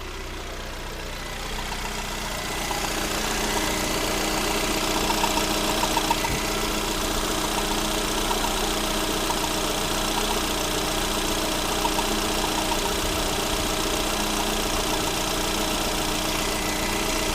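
Lada Granta's 126-series 1.6-litre 16-valve engine running at idle after a rebuild, with the knocking and grinding noise that has appeared since the overhaul, which has just become stronger. The sound grows louder over the first few seconds, then holds steady.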